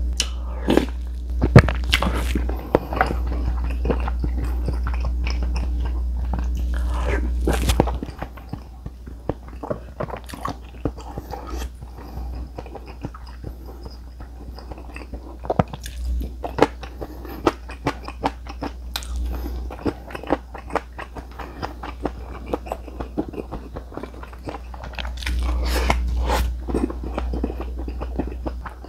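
Close-miked eating: a man chewing and crunching food, with many short, sharp clicks. A steady low hum runs under the first eight seconds and comes back near the end.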